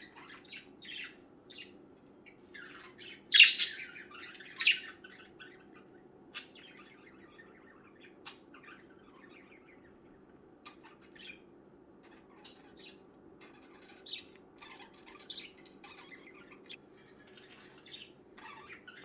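Pet budgerigars chirping and squawking in short, scattered calls, with the loudest squawks about three and a half seconds in and again a second later.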